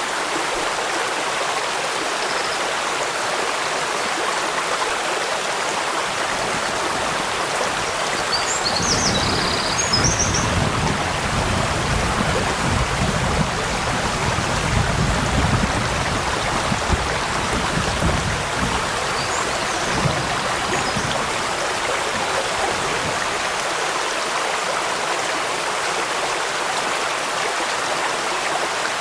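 Stream water rushing steadily over rocks, an even hiss of running water. A low rumble swells up about a third of the way in and fades out about two-thirds through.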